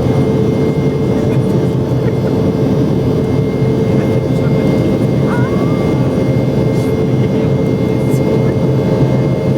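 Cabin noise of a Boeing 717 in flight, heard from inside the cabin: the rear-mounted BR715 turbofans and the airflow make a steady, unchanging drone with a constant whine on top.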